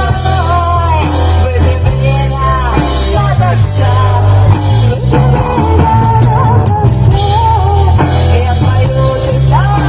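Rock band playing an instrumental passage between sung lines: drum kit and steady bass under a lead melody that slides up and down in pitch.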